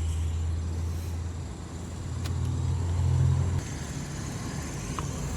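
A car engine running with a steady low rumble. It swells for a second or so, then drops off abruptly about three and a half seconds in, leaving a fainter hum.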